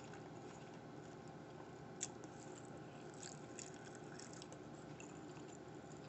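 Faint chewing of a mouthful of deep-fried sushi burrito with rice, seaweed and fried chicken, with scattered soft wet clicks. One sharper click comes about two seconds in and a few more follow in the middle.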